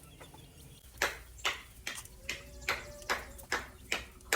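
Sped-up sound of a man doing push-ups: a quick, regular run of short sharp sounds, about two or three a second, starting about a second in.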